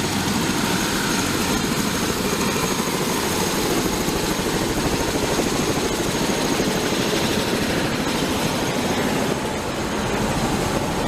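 Helicopter running: a steady, loud rush of rotor and turbine noise.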